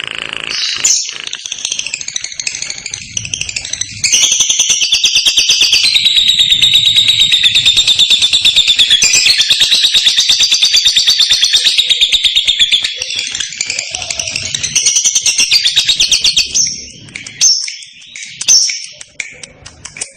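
Lovebird singing its 'ngekek' song: shorter chirps, then from about four seconds in a long, rapid chattering trill lasting roughly nine seconds, then more broken chirps.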